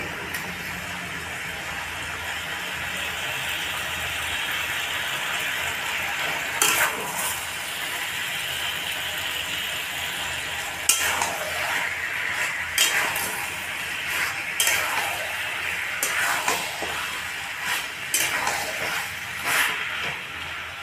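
Chicken 65 sizzling in a metal kadhai over a steady frying hiss, while a spatula stirs and turns the pieces. Through the second half the spatula scrapes and clinks against the pan every second or two.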